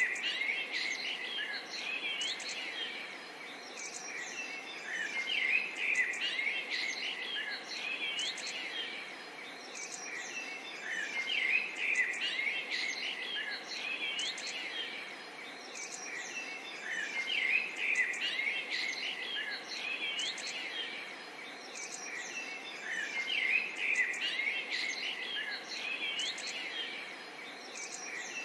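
Birdsong: small birds chirping and singing in quick rising and falling notes, in swells that come back about every six seconds over faint background hiss.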